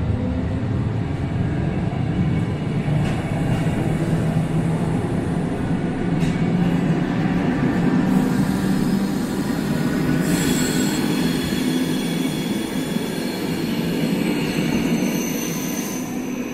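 SNCB electric multiple-unit train pulling out and passing close by: a steady rumble of wheels on the rails with a low running hum. High-pitched wheel squeal joins in partway through.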